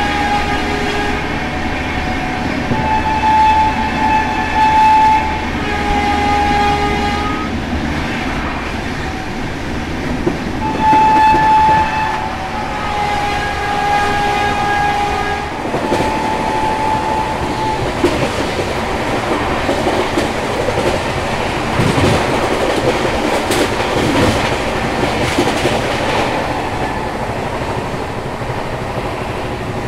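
Express train heard from an open coach door at about 127 km/h: the locomotive's horn sounds in a series of long, steady blasts through the first half, over the rush of wind and wheels. After the horn stops, the rattle of wheels on the track takes over, with a few sharper knocks.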